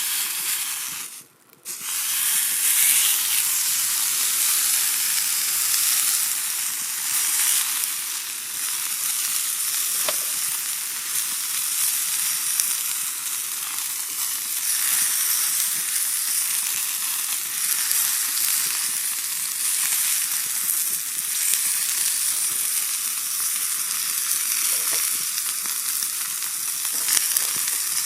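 Steak sizzling and frying on a steel griddle plate over a campfire, a steady hissing sizzle. The sound cuts out briefly about a second in, then resumes and runs on evenly.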